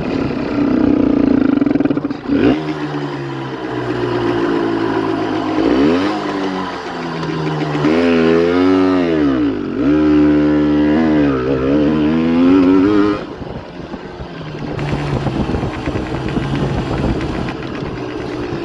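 Honda CRM125R's 125 cc two-stroke single-cylinder engine running and being revved, rising and falling in pitch several times through the middle, then dropping back to a lower, steadier run about thirteen seconds in.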